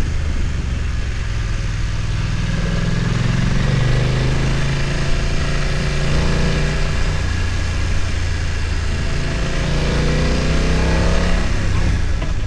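BMW F900 XR's parallel-twin engine running under load on a climb, its revs rising gradually twice.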